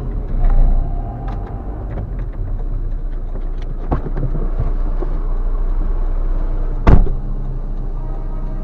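Steady low rumble of a car driving, heard from inside the vehicle, with a small knock about four seconds in and a single sharp, loud bang about seven seconds in.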